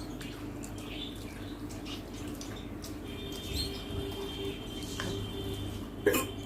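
Quiet eating at a table: faint clicks over a steady low hum, with one sharp knock about six seconds in.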